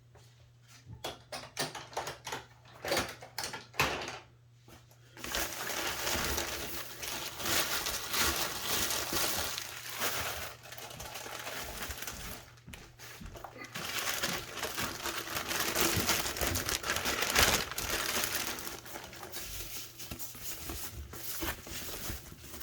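Packaging crinkling and rustling as a model train car is pulled out of its wrapping and box. Separate clicks and taps come first, then steady rustling from about five seconds in.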